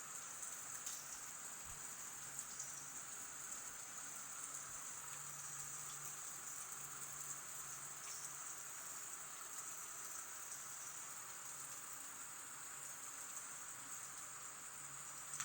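Rain falling steadily, a soft, even hiss with no breaks.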